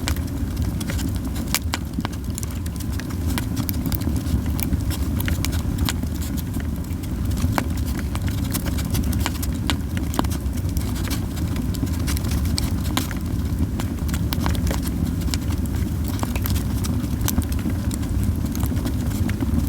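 Yew-wood campfire crackling, with frequent irregular sharp pops over a steady low rumble.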